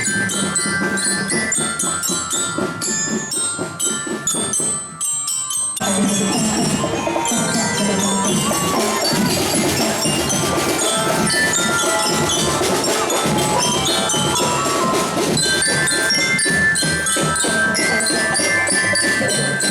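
A drum band playing: drums beating under a melody on mallet bells, with a brief break in the drumming about five seconds in.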